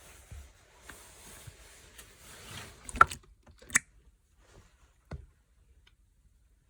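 Hands squishing and stretching a red and green mixed slime, with soft sticky rustling, then a few sharp pops and clicks: two loud ones about three and four seconds in and a smaller one about a second later.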